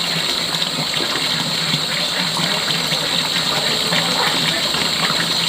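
Steady rush of running water that holds even throughout.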